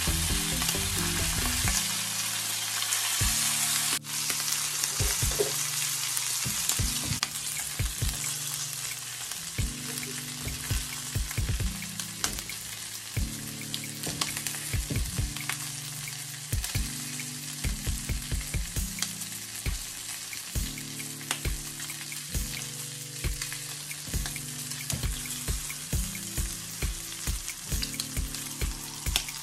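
Bacon-wrapped boiled eggs frying in a pan, the fat sizzling steadily, over quiet background music.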